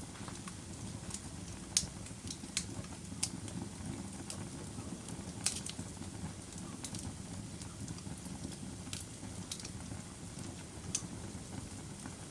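Wood fire burning in a fireplace: a steady low rumble of flames with irregular sharp crackles and pops, the loudest about 2 and 5.5 seconds in.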